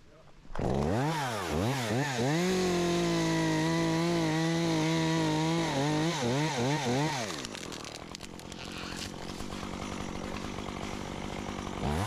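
Two-stroke chainsaw revved a few times, then held at high revs for about three seconds while cutting through a limb. It is blipped again and drops back to idle, with one more short rev near the end.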